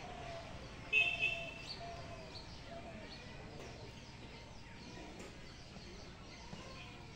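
Rural waterside ambience with birds chirping and calling throughout over a steady background hiss. A short, shrill call about a second in is the loudest sound.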